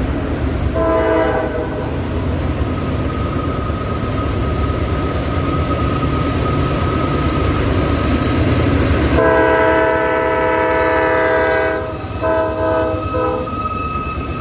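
CSX freight locomotive horn sounding over the steady rumble of the passing train: a short blast about a second in, a long blast of about three seconds past the middle, then two short blasts near the end.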